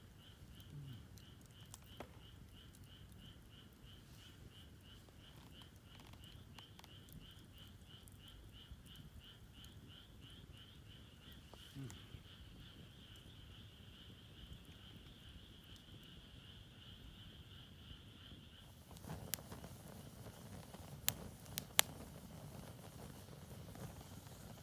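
A night insect chirping steadily, a thin high note repeated about two to three times a second, which stops about three quarters of the way through. After it stops, rustling with a few sharp clicks.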